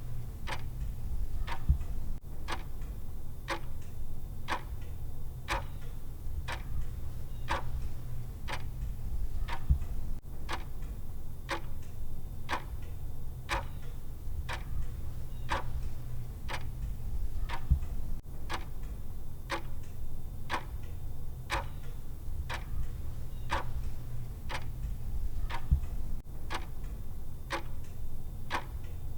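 Clock-style tick sound of a countdown timer: evenly spaced sharp ticks over a steady low hum.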